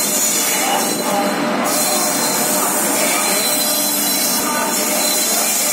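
Express train hauled by a WAP-7 electric locomotive moving along the track, a steady loud noise of wheels running on rail.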